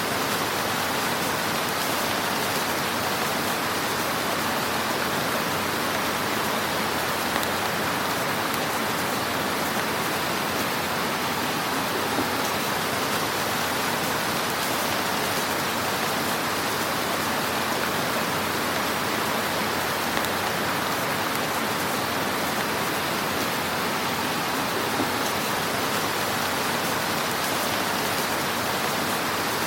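Fire burning in a fireplace: a steady crackling hiss with a few small pops.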